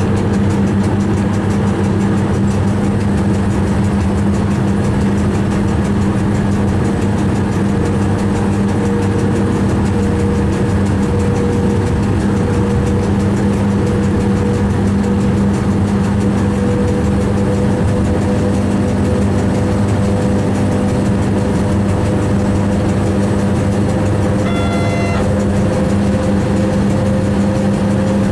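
Steady running noise of a train heard from inside the driver's cab: a loud low hum with a whine that slowly climbs in pitch as it goes. A short high tone sounds once near the end.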